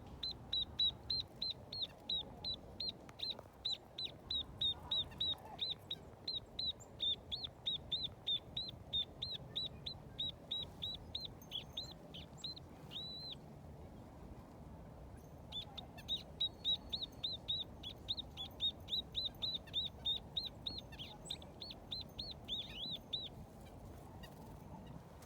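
A small bird calling a rapid run of short, high, down-hooked notes, about three or four a second. The run breaks off about halfway through, then starts again after two seconds.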